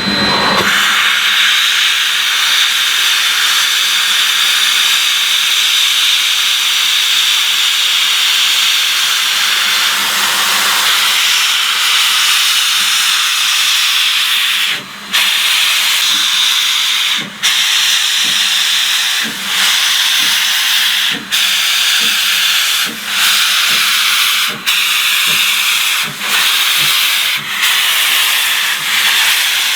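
Baldwin steam locomotive Santa Maria Valley No. 205 blowing off a loud, steady hiss of steam. About halfway through, a regular beat breaks into the hiss and quickens steadily, as when the engine starts off and gathers speed.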